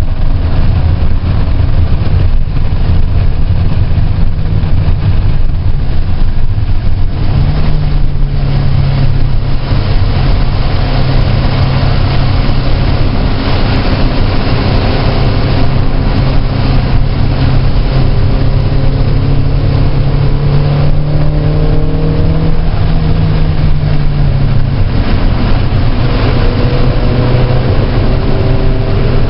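Car engine running hard at track speed, heard with road and wind noise. The engine note steps up about a quarter of the way in and drops back near the end.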